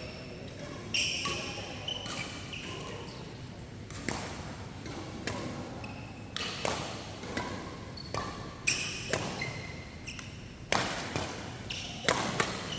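Badminton rally: rackets striking the shuttlecock with sharp smacks, roughly one a second and quicker in places, and brief high squeaks of shoes on the court.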